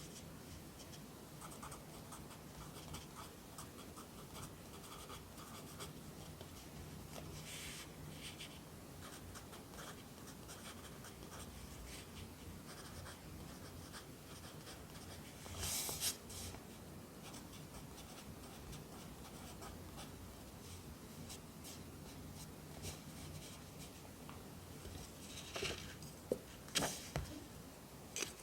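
Pencil writing on paper: soft, quick scratching strokes of handwritten Korean characters, with one longer, louder scrape about halfway through and a run of sharper, louder strokes near the end.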